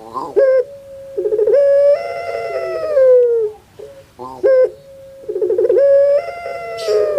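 Puter pelung dove (Barbary dove, Streptopelia risoria) cooing its song twice: each phrase a short note, a quick rolling trill, then a long drawn-out coo that sags in pitch at the end.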